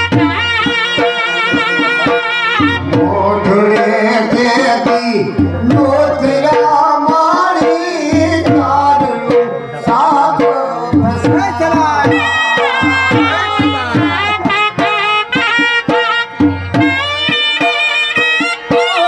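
Gujarati folk music: a sarnai (folk shehnai, a double-reed pipe) playing a wavering, ornamented melody over a steady dhol drum beat.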